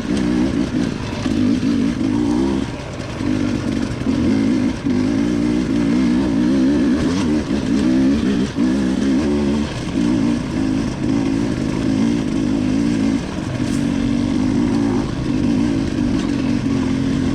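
Dirt bike engine running while riding a trail, its pitch rising and falling with the throttle.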